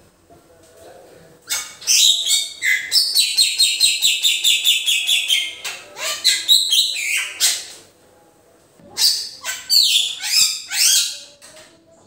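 Bali myna calling: loud, harsh chattering notes begin about a second and a half in, including a fast run of repeated notes. After a short pause near the end, a second burst of harsh calls follows.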